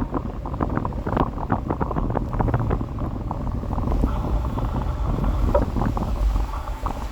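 Wind buffeting the microphone on a moving electric scooter: a steady low rumble, dotted with many small knocks and rattles.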